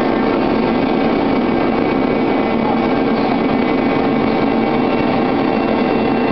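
Vertical flat-glass washing machine running steadily: a continuous mechanical drone with several steady whining tones held throughout.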